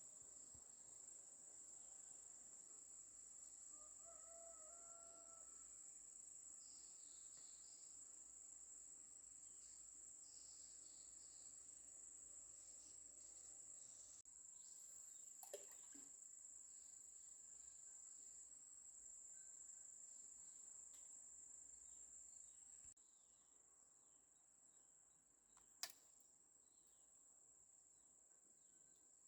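Faint, steady high-pitched drone of insects such as crickets, with a short bird-like call about four seconds in. Two sharp clicks come, one about halfway through and one near the end.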